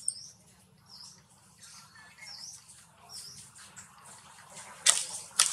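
Small birds chirping, short high calls every second or so. Two sharp clicks near the end are the loudest sounds.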